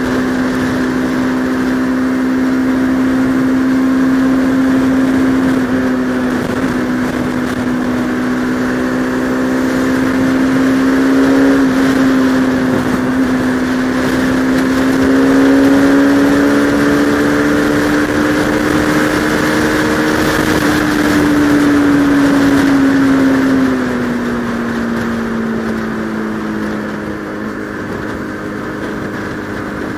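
Bajaj Pulsar RS200 single-cylinder motorcycle engine running at a steady cruise, with rushing wind noise as heard from a helmet camera. The engine note climbs slightly through the middle, then drops about three-quarters of the way through as the rider eases off the throttle.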